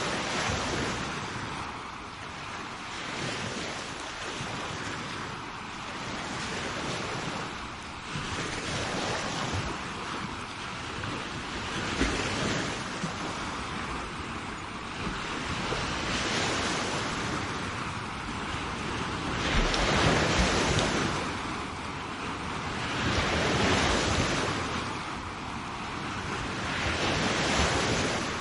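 Sea waves breaking and washing up the shore, a steady rush of surf that swells and eases about every four seconds. The loudest surge comes about two-thirds of the way through.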